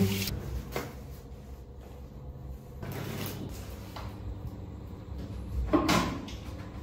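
A few light knocks and bumps on hard surfaces, the loudest about six seconds in as a baby monkey grabs the rim of a toilet with a plastic potty seat.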